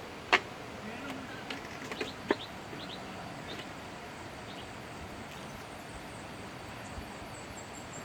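Steady outdoor hiss with two sharp knocks in the first few seconds and some fainter clicks between them. Near the end a bird gives a quick run of short, high, falling chirps.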